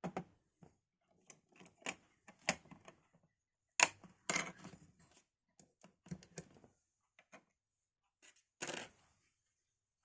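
Hands handling computer parts and packaging: irregular clicks, taps and short rustles. The loudest are a sharp knock near the middle and a half-second rustle near the end.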